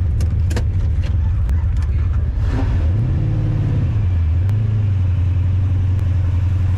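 A 1996 Corvette's LT4 V8 heard from inside the car, pulling away: engine pitch climbs about three seconds in, drops back a second later at a shift, then holds steady, with several sharp clicks in the first second and a half. The engine is misfiring, which the driver blames on the spark plug wires.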